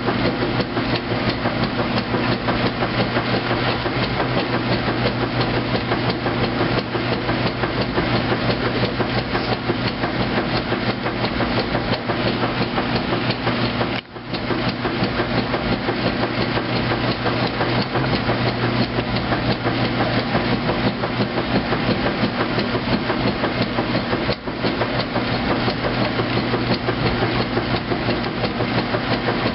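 2008 Kenmore top-load washing machine running its heavy duty cycle: a steady motor hum under a dense, rapid clatter. The sound drops out very briefly twice, about halfway through and again later on.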